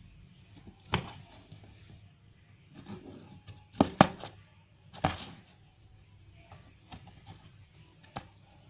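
Several sharp knocks and thumps on a cardboard box as a cat plays in it, the loudest two close together about four seconds in, over a faint low hum.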